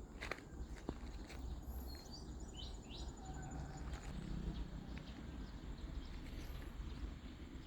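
Outdoor background rumble with a few short bird chirps about two to three seconds in, and scattered light clicks.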